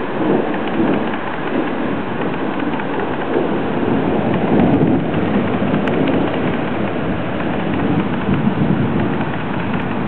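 Rain falling in a loud, steady downpour, an even hiss with no breaks.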